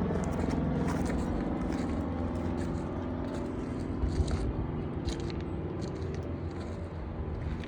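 Helicopter rotor and engine running steadily with a fast, even pulsing beat, growing gradually fainter.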